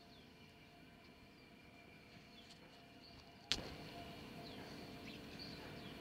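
Faint birdsong: short, scattered falling chirps over a quiet outdoor background. About three and a half seconds in, a single sharp click, after which the background is louder.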